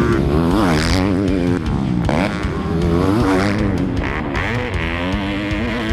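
Motocross bike engine under hard riding, its revs climbing and dropping again and again as the throttle is worked.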